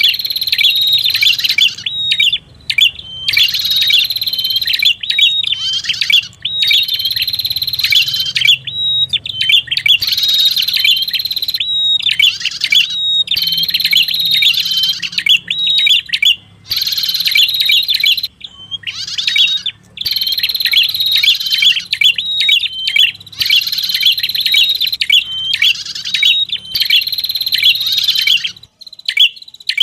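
Lure-call recording of a red-headed prenjak: rapid, high chattering song phrases about two seconds long, repeated over and over with short breaks, over a faint low hum. The calls stop shortly before the end.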